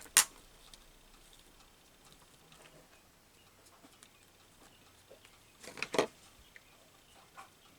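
Small handling sounds of craft work with paper pieces and tweezers: a sharp tap just after the start, then quiet, then a short cluster of taps and rustles about six seconds in.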